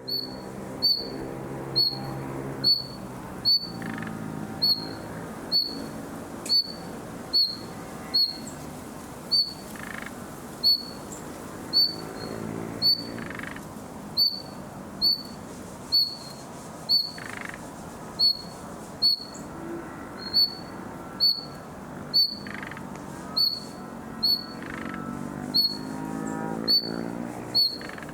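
Nightingale repeating one short, high note over and over, evenly spaced a little more than once a second. A lower pitched background sound swells near the start and again near the end.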